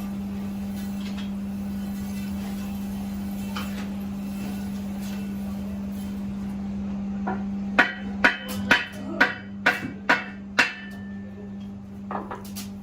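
A steady low hum, then about seven sharp hammer blows on the steel truck rim in quick succession, roughly two a second, followed by two lighter knocks near the end.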